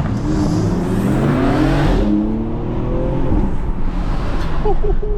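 BMW with a loud exhaust accelerating hard, the engine note rising steadily in pitch for about three seconds before it lifts off into steady road noise.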